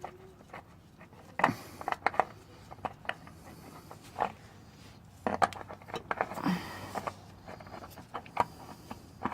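New spin-on oil filter being threaded onto its mount by hand: scattered clicks, light knocks and short scrapes of the metal canister at irregular moments.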